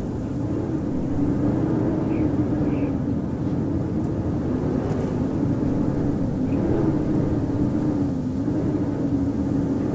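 Howling winter wind: a steady rush with a low moaning tone that wavers slowly up and down in pitch.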